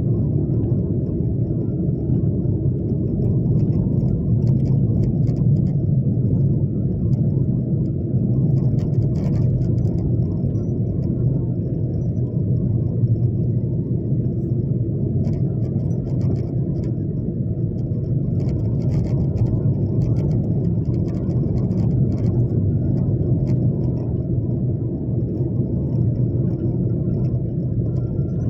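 Steady low rumble of a vehicle driving, unchanging throughout, with faint scattered ticks above it.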